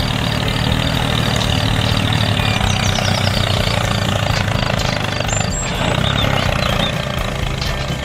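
A vehicle engine running steadily, like a truck idling, with a low hum.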